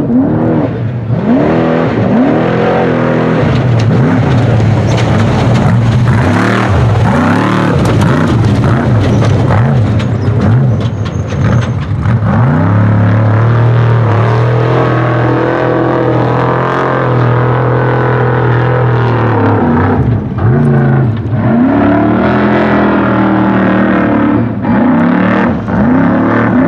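Off-road race truck engine running hard, revving up and down again and again, with a steadier stretch of held revs around the middle.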